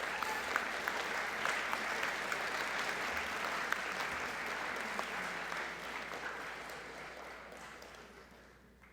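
Audience applauding for an award recipient, a dense patter of many clapping hands that fades out over the last few seconds.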